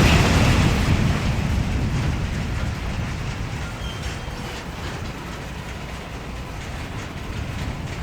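Freight train cars rolling with a low rumble and rail clatter. A loud rushing hiss fades away over the first few seconds, and the rumble slowly dies down.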